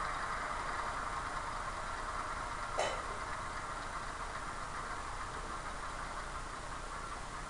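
Model-railway DCC sound decoder (LokSound Select) playing a GE AC4400 diesel locomotive engine idling, heard through the model's small speaker as a steady hum. A single short sharp click sounds about three seconds in.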